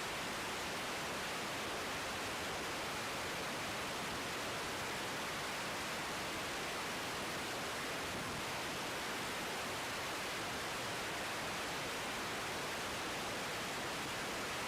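Steady hiss of static from an air traffic control radio feed between transmissions, level and unchanging.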